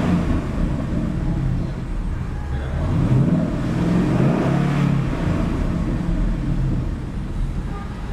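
2011 Ford Mustang GT's 5.0-litre V8 engine running through its dual exhaust, its pitch rising and falling a couple of times around the middle as it is revved.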